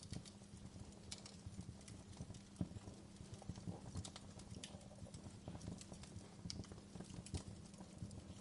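Wood fire crackling in a fireplace: irregular sharp pops and snaps, some louder than others, over a low, steady rumble of burning.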